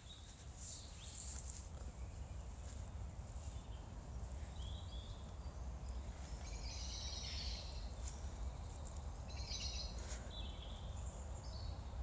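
Small songbirds chirping and singing in short phrases, several times through the stretch, over a steady low background rumble.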